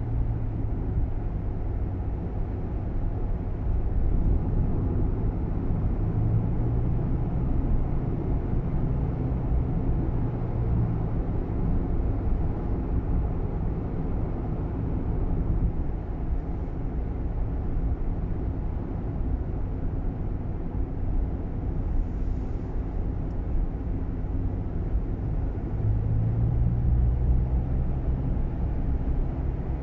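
Steady low rumble of engine and road noise inside a moving Nissan Roox's cabin, swelling a little now and then. No distinct rattle stands out.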